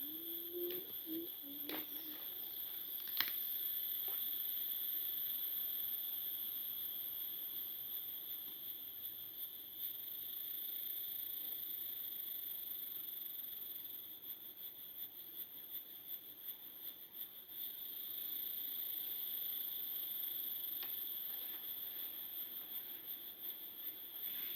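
Forest insects chirring steadily in two high-pitched bands, with a few sharp clicks and knocks in the first few seconds.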